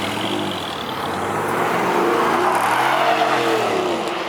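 A car engine revving up and dropping back, loudest about three seconds in.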